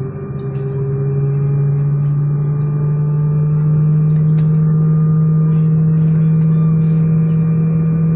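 Steady drone of an airliner cabin: a low hum with a higher tone above it, both rising slightly in pitch and growing louder over the first few seconds, then holding steady. Faint clicks sound over it now and then.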